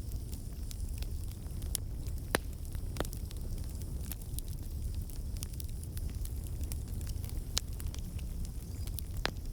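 Campfire burning: a steady low rumble of flames with irregular sharp crackles and pops, a few louder snaps standing out.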